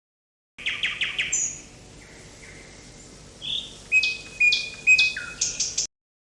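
A songbird calling: a quick run of sharp chirps, a stretch of softer whistled notes, then a second run of loud chirps. The clip starts and cuts off abruptly.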